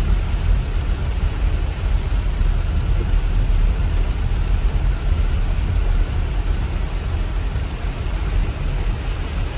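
River in spate after a cloudburst: rushing floodwater making a steady, loud, deep rumble with a hiss over it.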